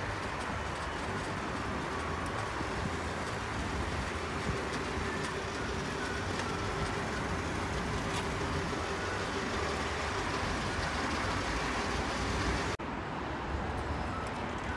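Steady outdoor street and traffic noise with a faint steady hum. It cuts off abruptly about two seconds before the end and gives way to a similar background.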